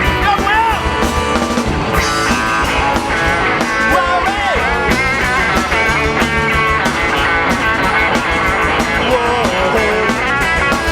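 Live rock band playing an instrumental passage: electric lead guitar with bending notes over drums and bass.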